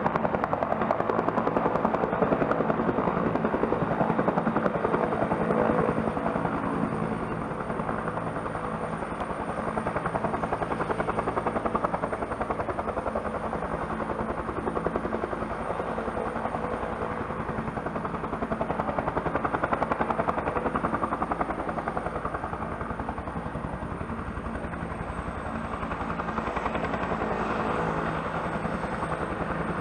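Bell helicopter running, turbine engines and rotor together: a steady high turbine whine over the rotor's rapid, even beat, easing off slightly after about six seconds.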